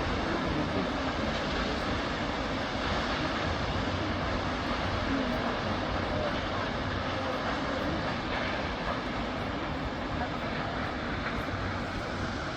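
Steady roar of a tall waterfall: an even rush of falling water with no breaks.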